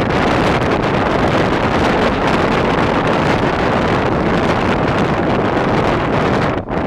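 Strong wind roaring steadily across the microphone, with a brief drop near the end.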